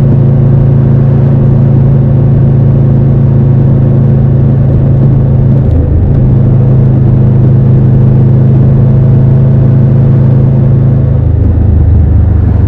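Triumph Tiger 1200 Rally Pro's inline three-cylinder engine running steadily under way, with a short break in the engine note about six seconds in and the pitch falling near the end.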